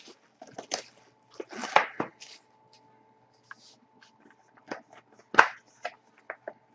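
Trading card boxes and packaging being handled: scattered knocks and short rustles, loudest about two seconds in and again about five and a half seconds in, over a faint steady hum.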